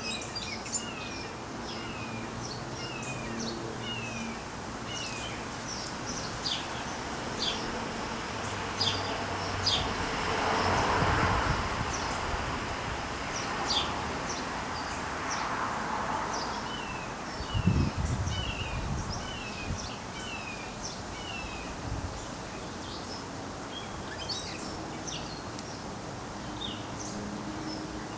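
Small wild birds chirping and calling: a run of short falling chirps repeated about every half second, with scattered high peeps throughout. Steady outdoor background noise runs under them, with two swells of rushing noise in the middle and a low bump a little later.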